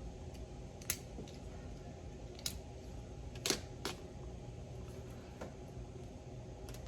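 A handful of sharp, scattered metal clicks as a knife blade works old Teflon O-rings off a steering box part, the loudest about halfway through. A low, steady hum runs underneath.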